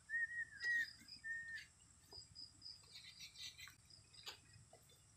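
Birds calling: three short whistled notes in the first second and a half, then faint high chirps.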